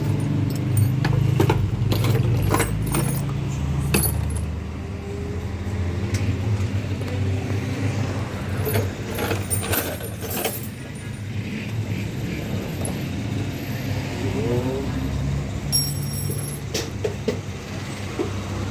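A motor vehicle engine runs steadily with a low hum, while small metal pieces clink and clatter again and again, busiest in the first half.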